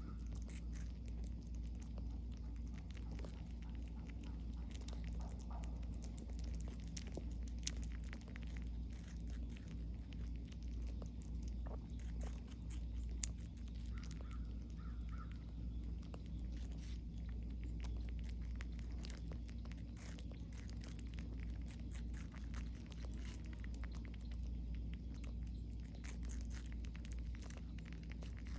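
Squirrels gnawing and chewing watermelon: scattered small wet clicks and crunches throughout, over a steady low hum.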